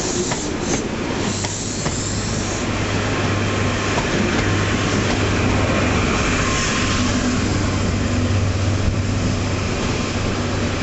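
InterCity 125 High Speed Train running past the platform: a continuous rolling rumble and rattle of the Mark 3 coaches with a steady low diesel hum from the power car, getting a little louder in the middle.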